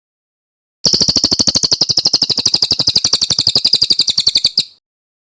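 Cililin bird song: one long, rapid, loud trill of evenly repeated notes, about eleven a second, starting about a second in and cutting off abruptly near the end.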